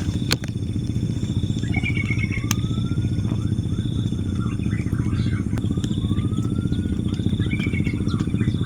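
A small motorcycle engine running steadily, with a fast, even low pulsing. Two brief chirping calls are heard over it, about five seconds apart.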